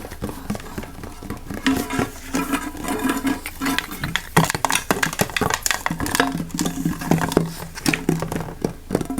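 Fast, irregular tapping and clicking close to the microphone, a rapid string of small hits.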